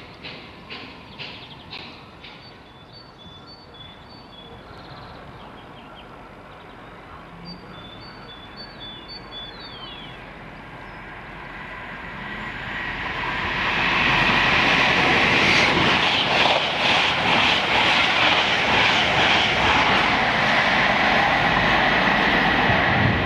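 An East Midlands Trains HST, class 43 diesel power car leading, approaches and passes at speed. Its rush builds from about twelve seconds in and turns loud about two seconds later, with the rhythmic clatter of wheels over the rail joints. Before it, the fading wheel clicks of a departing class 319 electric unit and a few faint high chirps.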